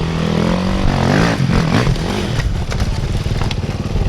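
Dirt bike engine revving up and down, then running on steadily, with a few short knocks a couple of seconds in.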